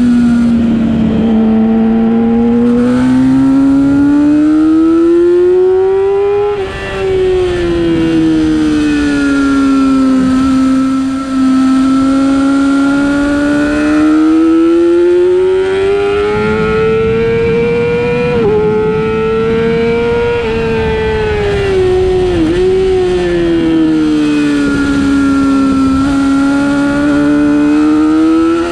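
A racing motorcycle's engine under hard riding on a track. Its note rises and falls in long sweeps as the throttle opens down the straights and eases through the corners, with several brief dips at gear changes.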